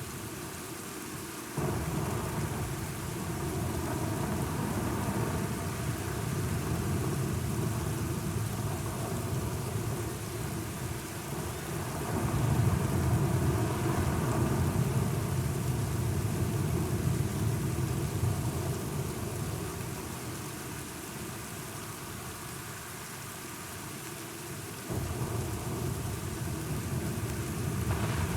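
Steady rain with rolling low thunder. The rumble comes in suddenly near the start, is loudest about halfway through, fades, then jumps up again near the end.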